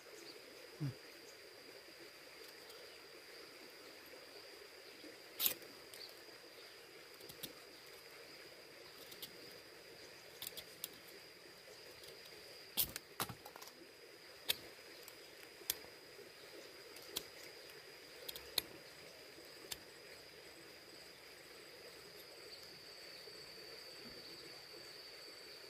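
A steady, high, unbroken insect trill, cricket-like, over faint outdoor background noise. Near the middle come a dozen or so sharp clicks and taps, scattered irregularly.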